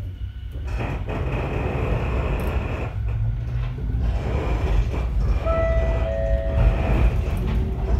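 Echizen Railway MC7001 electric railcar (a former JR 119 series) running along the line, heard from inside the car: a steady rumble of wheels on rail that slowly grows louder. A short high tone sounds a little past halfway, with a lower second tone under it.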